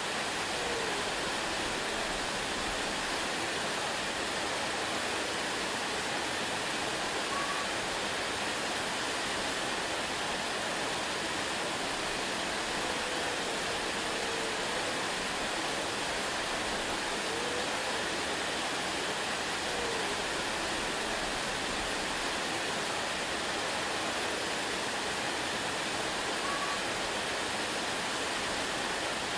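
Waterfall rushing in a steady, unbroken stream of water noise.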